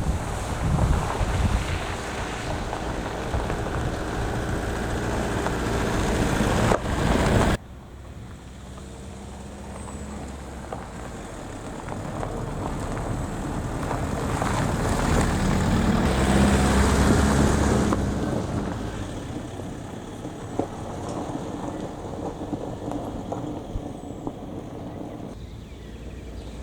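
Wind buffeting the microphone with a heavy rumble, cut off suddenly a few seconds in. Then a car's engine and tyres on a track swell to a peak about two-thirds of the way through and fade away as it passes.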